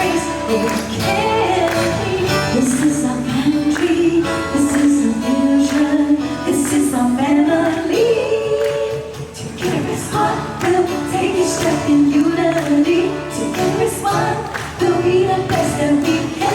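Live pop song performance: voices singing a melody over band accompaniment.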